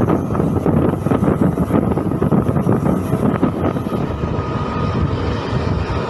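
MEMU electric multiple-unit train running at speed, heard on board: a steady rumble of wheels on the track with irregular rattling and wind noise.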